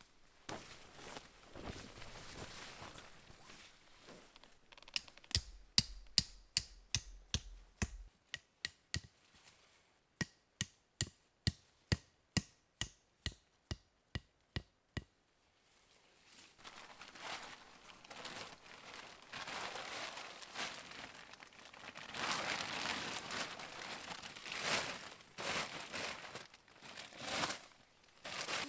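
Crinkling and rustling of tarp fabric as a tarp shelter is pitched, broken in the middle by a run of about twenty sharp, evenly spaced knocks, a little over one a second.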